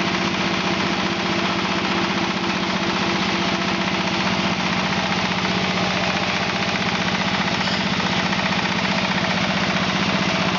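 Diesel engine running steadily with a fast, even knock, driving a wood hammer mill.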